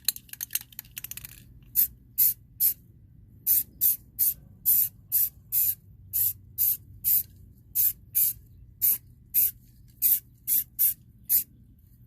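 Aerosol can of Rust-Oleum High Heat spray paint: a second or so of rapid rattling as the can is shaken, then about twenty short hissing spray bursts, roughly two a second, laying down a light second coat on an exhaust pipe.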